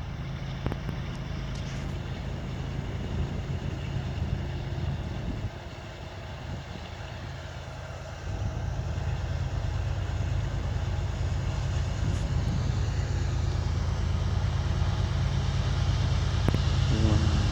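Diesel locomotives of a CSX coal train running with a steady low engine rumble, getting louder as the train approaches, with a step up in loudness about eight seconds in.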